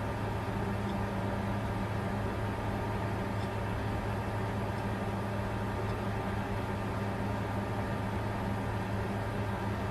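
Bitcoin mining computer running flat out: the steady whir of its cooling fans, a constant hiss over a low, even hum.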